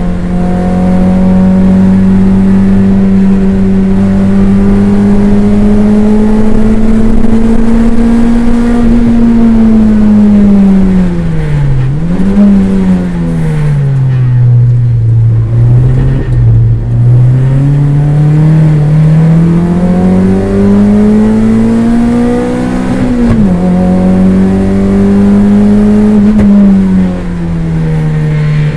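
Toyota MR2 race car's engine heard from inside the cabin, running hard on track. The engine note climbs slowly, drops steeply about ten seconds in and stays low for a few seconds, then climbs again, with a sharp dip about twenty-three seconds in and another fall near the end.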